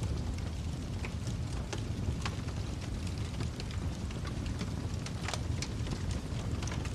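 Fireplace fire crackling: a steady low rumble of burning with scattered sharp pops, the strongest about five seconds in.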